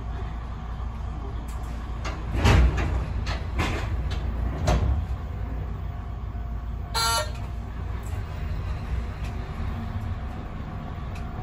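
Kominato Railway diesel railcar running slowly with a steady low rumble, its wheels knocking over rail joints three times about a second apart. A brief high-pitched tone sounds about seven seconds in.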